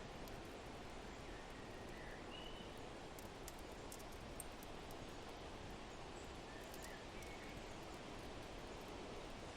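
Steady wind noise with a few faint bird chirps, about two and seven seconds in, and faint high crackles from a wood fire.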